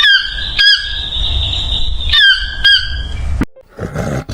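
Cockatoo squawking: four harsh calls in two pairs, each dipping in pitch, over a low rumble. The audio cuts off abruptly about three and a half seconds in, and a fainter, different sound follows near the end.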